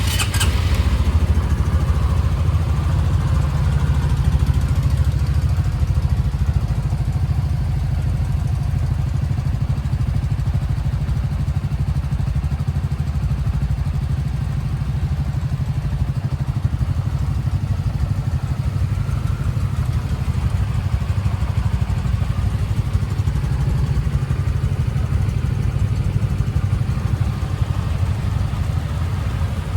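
Motorcycle engine idling steadily, warming up after a cold start following long storage. A few sharp clicks come right at the start.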